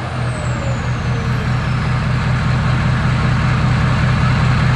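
Ford F250 Powerstroke V8 turbo-diesel idling with a steady, even pulse, and a high whine that falls in pitch over the first two seconds.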